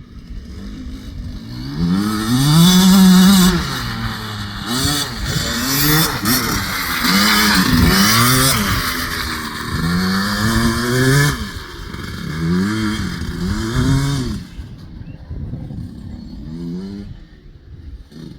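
Husqvarna TC65 small two-stroke dirt bike engine revving up and down again and again as it is ridden, the pitch rising and falling about every second or so. It is loudest early on and fades away after about fourteen seconds.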